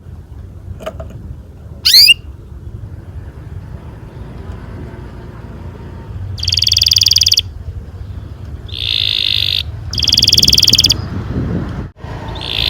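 Canary singing: one sharp sweeping chirp about two seconds in, then three fast rolling trills of about a second each in the second half, over a low steady hum.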